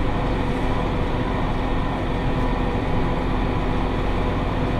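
Massey Ferguson 5610 tractor running steadily under load while pulling a John Deere 468 round baler through windrowed hay at high field speed, a constant mechanical drone with a steady tone over it.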